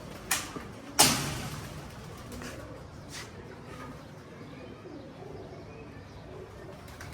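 Domestic pigeons cooing at the loft, with two sharp knocks near the start, the second, about a second in, the loudest.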